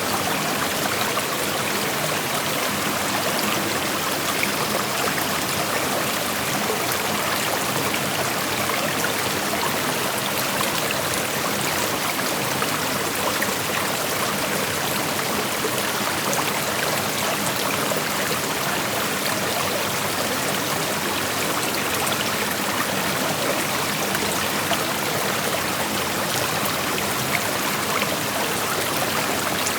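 A gentle creek flowing: a steady rushing of water with small trickles and splashes running through it.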